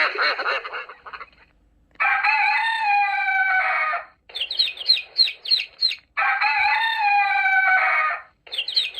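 Recorded rooster crowing twice from a children's animal sound book, each crow followed by a run of quick peeping chick chirps. In the first second and a half, the tail of the book's duck sound fades out before the first crow.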